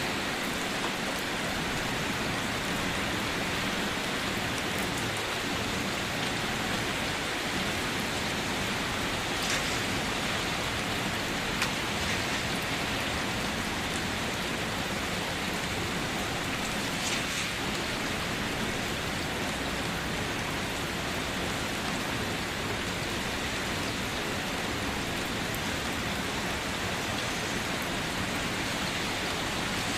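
Steady, even rainfall, a dense hiss of falling rain with a few sharper single drop ticks standing out now and then.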